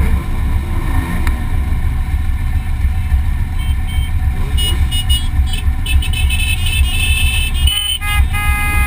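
Motorcycle running, picked up by a GoPro mounted on the front of a Yamaha XJR, with a heavy low rumble throughout. From about halfway in, high steady tones start and stop in steps over the rumble.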